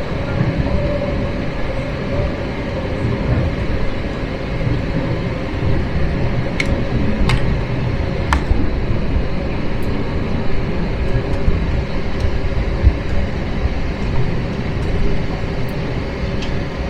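Cabin noise inside an Airbus A321-231: a steady rumble of its IAE V2500 jet engines and airframe, with a few sharp clicks about seven seconds in.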